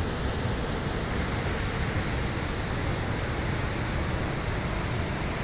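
Waterfall rushing, a steady even roar of water with no breaks.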